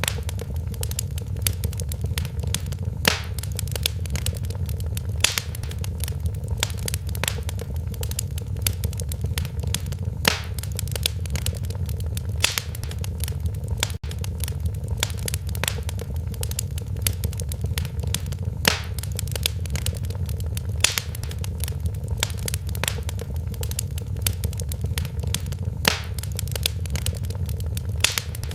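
Wood fire crackling in a fireplace: a constant low rush of the flames under a steady patter of small crackles, with sharper pops every second or two.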